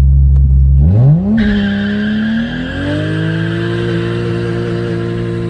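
BMW E39 drift car's engine revving up about a second in and held at high revs, with tyres squealing in a sustained slide.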